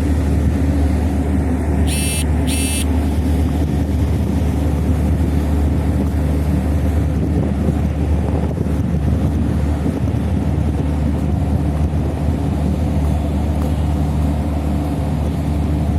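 Heavy engines running in a steady low drone. About two seconds in, two short high electronic beeps sound in quick succession.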